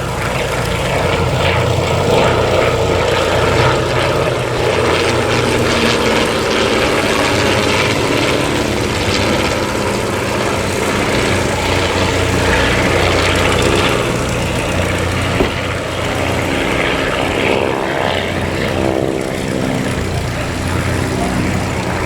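Vintage piston-engined propeller aircraft running steadily, its engine note shifting in pitch over the last few seconds.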